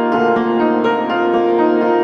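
Gentle background piano music: a steady flow of sustained notes.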